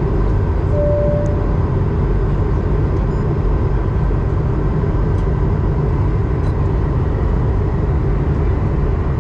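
Steady in-flight cabin roar of an Airbus A220-100, the rush of airflow and its Pratt & Whitney PW1500G geared turbofans heard from inside the cabin, with a faint steady whine over it. A short beep sounds about a second in.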